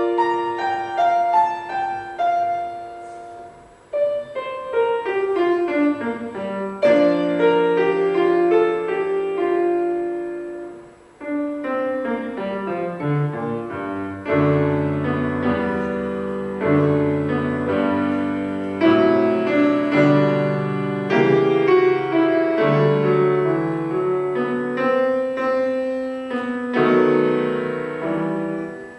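Solo piano playing a classical piece, with running melodic lines over sustained bass notes and chords.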